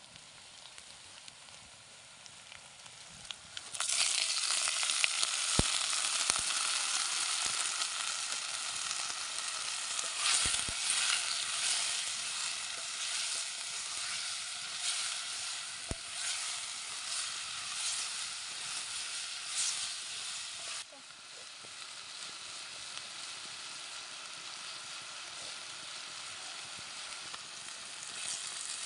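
Chicken pieces frying in hot oil in a clay pot over a wood fire. The sizzling starts suddenly and loud about four seconds in, with a few sharp clicks from a bamboo stick stirring the pot. It drops to a quieter, steady sizzle over the last several seconds.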